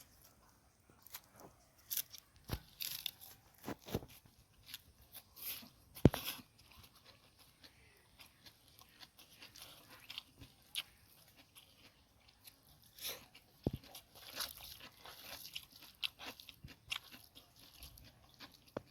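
A person chewing and crunching mouthfuls of food close to the microphone: irregular crisp crunches and wet mouth clicks, the sharpest about six seconds in.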